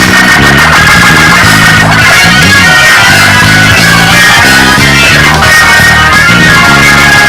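Church band playing a loud, fast praise break: a bass line stepping quickly from note to note under organ and guitar.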